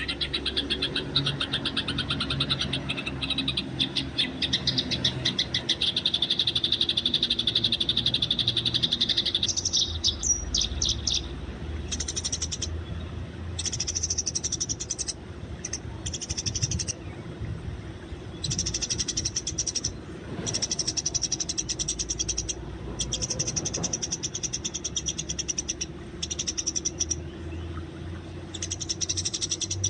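Eurasian tree sparrows chattering, a dense run of very fast chirps. About ten seconds in the chatter turns higher and breaks into bursts with short pauses between them.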